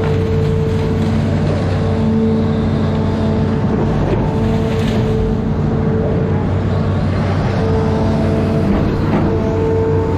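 Amphibious excavator's diesel engine running steadily under load, with a whine of steady tones that cut in and out and shift every few seconds as the machine works.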